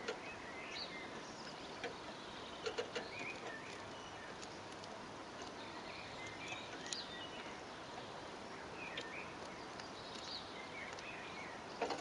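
Small birds chirping and twittering in short, scattered calls over a steady background hiss. A few sharp clicks cut through, three in quick succession about three seconds in and one near the end.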